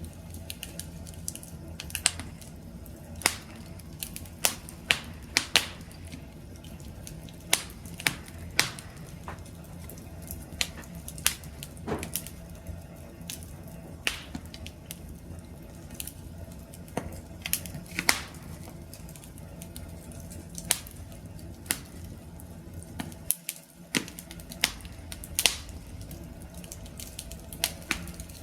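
Wood fire crackling: irregular sharp pops and snaps, a few a second, over a low steady rumble of burning.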